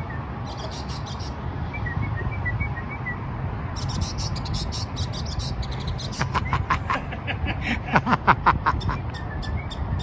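Northern mockingbird singing: a varied string of rapidly repeated notes, with soft chirps, quick runs of high clicking notes, and a louder run of repeated notes in the second half, over a low steady rumble.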